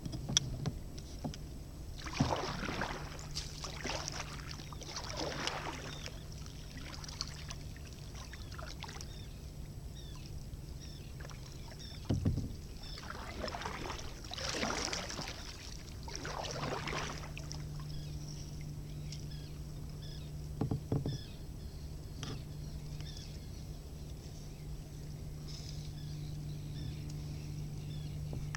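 Kayak paddle strokes swishing through the water, a few in a row then a pause, then another run of strokes. There is a single knock about twelve seconds in, over a low steady hum.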